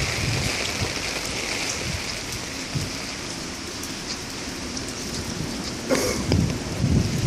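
Heavy rain falling steadily on surfaces, with scattered drop ticks, a sudden sharp crack about six seconds in, and gusts of wind buffeting the microphone near the end.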